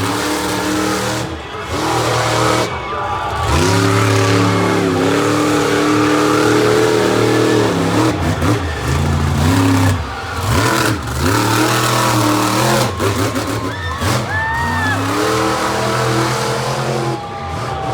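Monster truck engine revving hard over and over, its pitch climbing and dropping sharply as the throttle is worked through a freestyle run.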